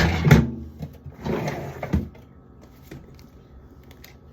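Food containers and packaging being handled while a fridge is emptied: two bursts of rustling and shuffling in the first two seconds, the second ending in a sharp knock as something is set down, then a few faint clicks.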